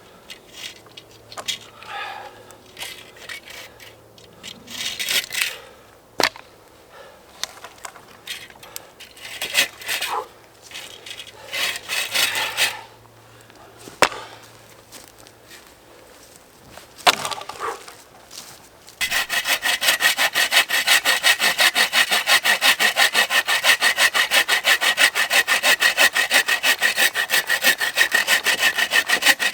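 Irregular handling, scraping and a few sharp knocks, then, about two-thirds of the way in, a hand saw cutting wood in fast, even strokes that keep going.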